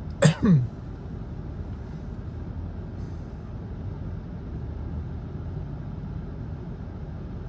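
Steady low rumble inside a stationary car with its engine idling. A brief falling vocal sound from a man comes near the start and is the loudest moment.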